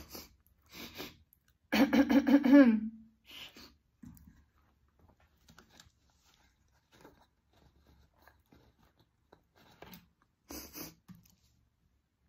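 A person eating: soft chewing and mouth noises in short scattered bursts, with one loud wordless voiced sound at a steady pitch, about a second and a half long, starting near two seconds in.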